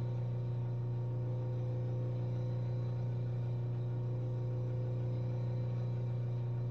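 Steady low hum with a few fainter steady higher tones above it, unchanging throughout.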